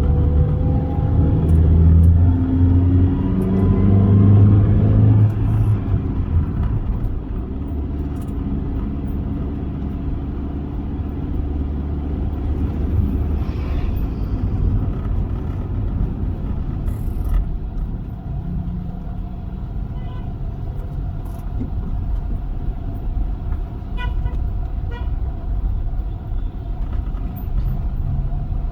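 A Toyota Avanza driving, heard from inside the car. For about the first five seconds the engine note rises as the car accelerates, then it settles into a steady drone of engine and road noise while cruising.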